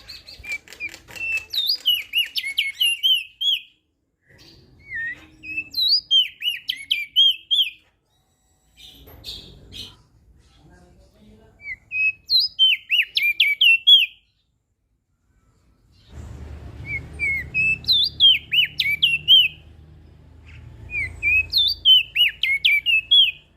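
Opior jambul songbird singing: five quick, twittering song phrases of a few seconds each, separated by short pauses.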